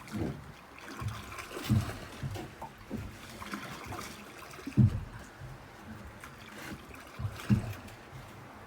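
Sea water splashing and dribbling as a weed-fouled gill net is hauled aboard a small boat, with irregular low knocks and splashes.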